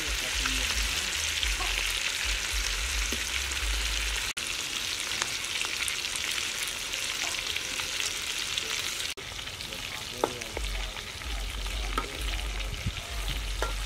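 Tomatoes and omelette pieces sizzling steadily in hot oil in a steel wok, with a few sharp knocks of the metal spatula or ladle against the wok near the end.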